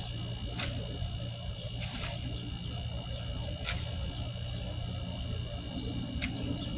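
Four sharp snaps, a second or two apart, as small tree limbs are cut up or broken for the bottom of the bed, over a steady low rumble.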